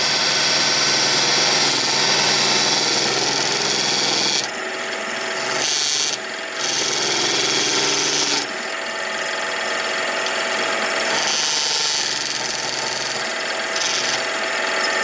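Wood lathe running with a turning tool cutting the spinning wooden blank, turning down a tenon. The hissing cutting noise swells and drops several times as the tool is pushed in and eased off, over the lathe motor's steady hum.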